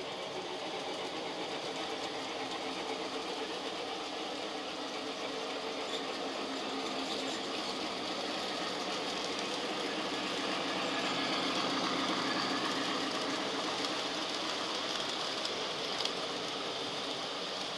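Model train running along its track: a fast, steady mechanical clatter that grows louder in the middle and then eases off.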